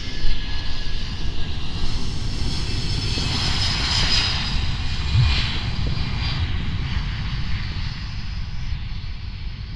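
An airplane's engines passing close by, a loud rumble with a high whooshing hiss that swells to its loudest about four seconds in and then slowly eases.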